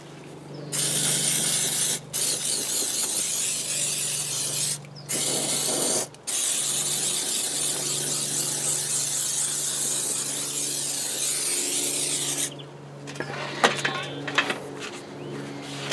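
Paint being sprayed onto the cast iron workbench parts in long hissing bursts, with short breaks between them. A steady low hum runs underneath, and a few sharp clicks and rattles come near the end.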